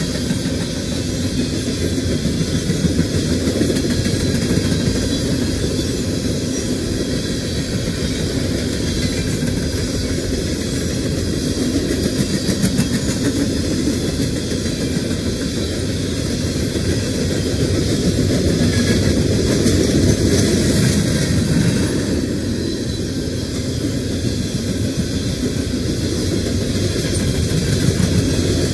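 Empty CSX coal train cars rolling past on the track: a loud, steady noise of steel wheels on the rails.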